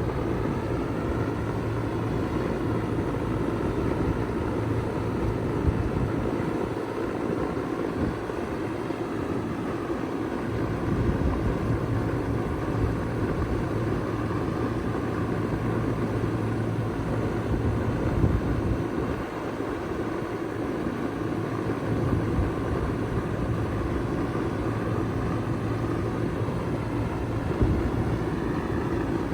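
2004 Bard wall-hung heat pump running steadily in heat mode, its compressor humming under the rush of the fans.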